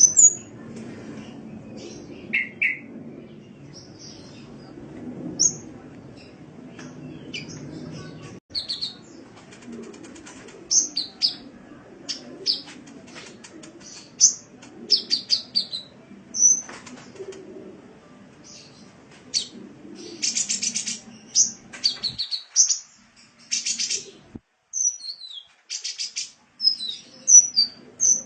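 Sunbird (kolibri) song: a string of short, high-pitched chirps and quick rattling trills, coming faster and denser in the second half. A low background hum runs underneath until about three-quarters of the way through, then drops out.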